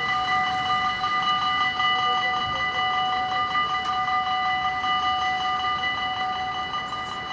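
Dutch level crossing warning bell ringing continuously, a steady ringing tone held throughout while the crossing is closed for a train.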